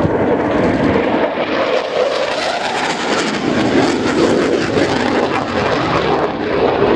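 Panavia Tornado jet fighter-bomber flying past in a display, the jet noise of its twin RB199 turbofans a loud, continuous roar that grows brighter and crackles through the middle before easing near the end.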